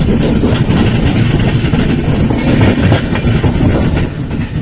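Passenger train running on the rails: a loud rumble with the wheels clattering over the rail joints, easing off about four seconds in.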